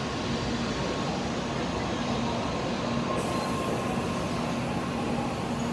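N700-series Tokaido Shinkansen train rolling past the platform: a steady rumble of running gear with a steady low hum and a fainter higher tone.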